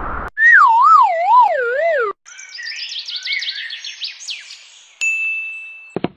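Cartoon-style sound effects: a wavering whistle slides down in pitch for about two seconds, then a run of quick rising chirps follows, and about five seconds in a single high ding rings on steadily.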